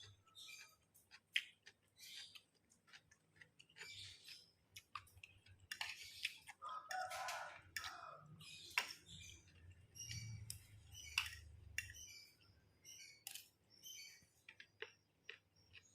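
Faint mukbang eating sounds: a person chewing fried rice, with irregular wet mouth clicks and smacks.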